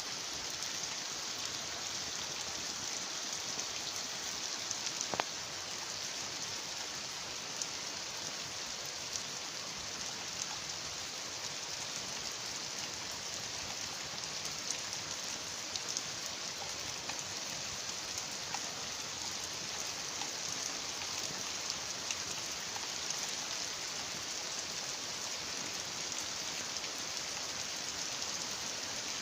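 Heavy rain falling steadily: an even hiss of drops with scattered small ticks, and one sharper tick about five seconds in.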